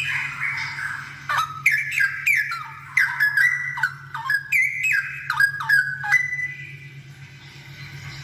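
Straw-headed bulbul (cucak rowo) singing a loud run of quick, sliding whistled notes from about a second in until about six seconds, then dropping to softer chatter. A steady low hum runs underneath.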